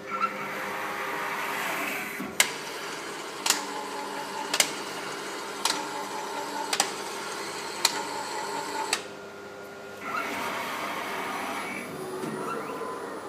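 ZPrinter 850 3D printer's powder feeder mechanism running with a steady mechanical whir. From about two seconds in come seven sharp clicks, about one a second. The whir pauses briefly, then starts again: the abnormal feeder noise that the owner presents as a problem.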